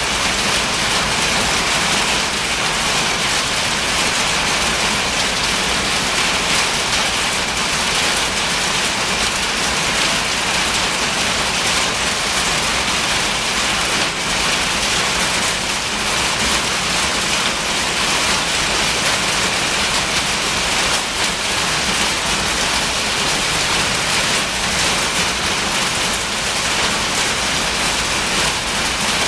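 Marble-sized hailstones drumming steadily and densely on a metal building's roof and walls, very loud inside the building.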